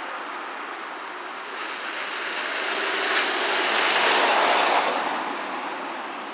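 EF210 electric freight locomotive hauling a container train, passing. Its running noise swells to a peak about four seconds in and then fades, with a faint high whine over it.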